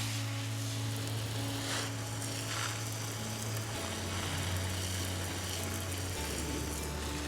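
Garden hose spray hissing steadily onto the plants, fed by a battery-powered pump, over background music with slow, held bass notes.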